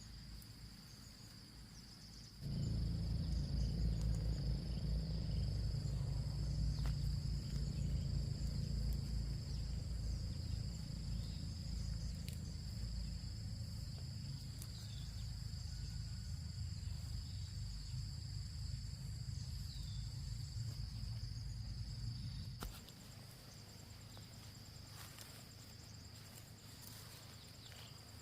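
Insects chirring in one steady high-pitched drone, with a loud low rumble that starts abruptly a couple of seconds in and cuts off abruptly about twenty seconds later.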